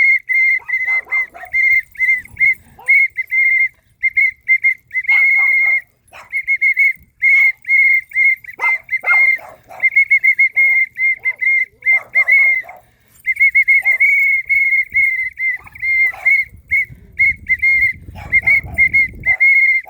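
A small whistle blown over and over, in many short toots and a few longer blasts: a high, slightly warbling tone with brief gaps between breaths.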